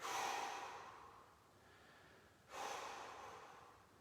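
A man's slow, deep breaths: two long exhales, one at the very start and one about two and a half seconds in, each starting sharply and fading away. It is controlled cool-down breathing during a stretch, meant to lower the heart rate.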